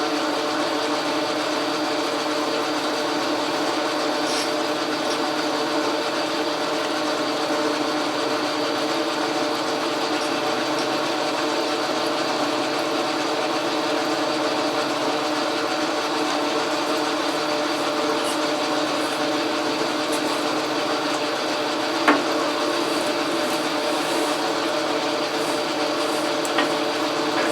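Logan metal lathe running steadily under a cut, its motor and drive humming with several steady tones over an even hiss of cutting. A single sharp tick about 22 seconds in.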